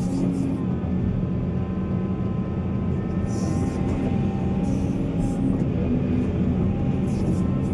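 Heavy diesel engine of mining machinery running steadily, a deep even drone with a few short hisses over it.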